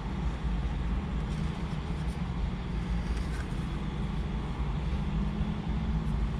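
Car engine idling steadily, a low even hum heard from inside the cabin of the parked car.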